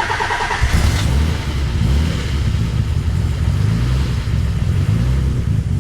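Nissan 300ZX twin-turbo VG30DETT V6 cold-started on E85 after sitting a week: the starter cranks briefly and the engine catches under a second in, then keeps running at a held idle with a light chatter that the owner puts down to the VTC in the heads before oil pressure builds.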